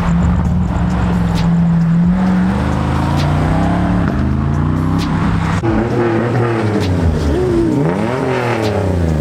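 A car engine being revved at a meet: first held at a steady raised speed, then from about six seconds in given a series of quick throttle blips that rise and fall in pitch.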